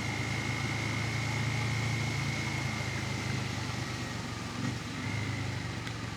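Bajaj Pulsar N250's single-cylinder engine running steadily while riding, under a hiss of wind and tyres on a wet road. The engine sound eases a little after about three and a half seconds.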